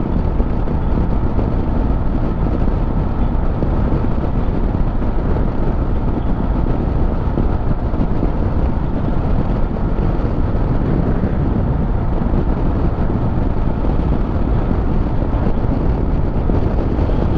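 Motorcycle riding at steady road speed: loud, unbroken wind rush on the camera microphone mixed with engine and road noise.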